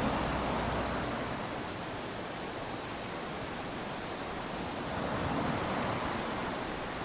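Small waves lapping and washing up onto a sandy beach, a steady hiss of surf that swells gently at the start and again about five seconds in.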